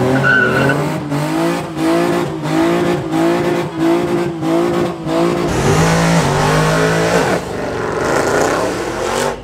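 Car engine revved hard in a sideshow, its pitch rising and falling over and over as the car spins donuts, with tires squealing. About two-thirds of the way through, the revs hold steady for a moment, then climb again.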